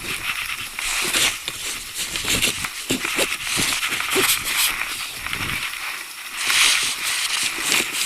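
Rubbing and scraping as a board partition's slotted edges are worked onto the fittings in a PVC inflatable boat's bow, in repeated rustling bursts with a few light knocks.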